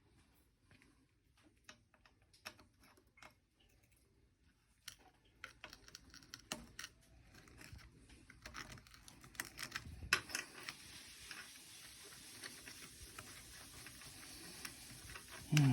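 Scattered light clicks and clinks of hand tools and metal engine parts being handled during an engine teardown, irregular and busiest in the middle. A faint steady hiss comes in about ten seconds in.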